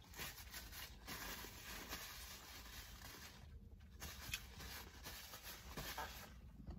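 Faint rustling and scratchy handling noise from a paper towel, with a few light irregular clicks.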